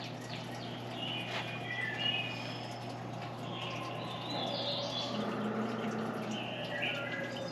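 Songbirds chirping and calling in short, scattered notes over a steady low hum.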